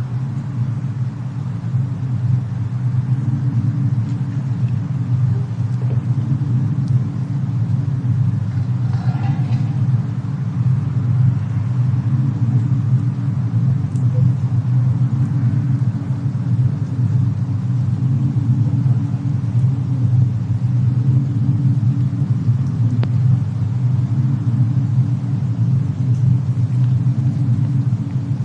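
Cabin fireplace and snowstorm ambience: a steady, deep rumble that does not change, with a few faint crackles scattered over it.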